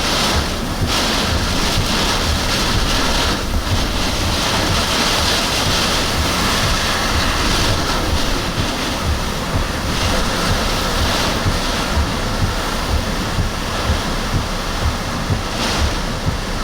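Hurricane-force wind blowing hard, rising and falling in gusts, with wind buffeting the microphone in a low, uneven rumble.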